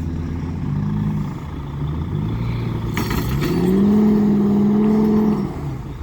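Truck engine under load during a tow, running at low revs, then revving up about three and a half seconds in and holding high revs for about two seconds before easing off. A brief clatter of knocks comes just before the rev-up.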